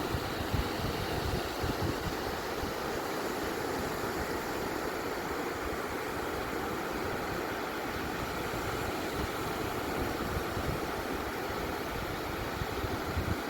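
Beach waves washing on the shore: a steady, even rushing without distinct breaks.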